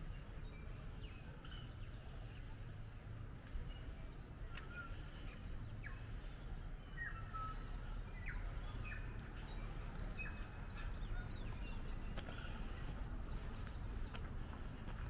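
Outdoor ambience of small birds chirping, short calls scattered throughout, over a low steady rumble.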